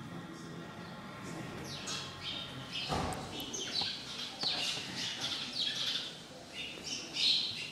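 Small birds chirping over and over, in many short falling chirps, with one sharp knock about three seconds in.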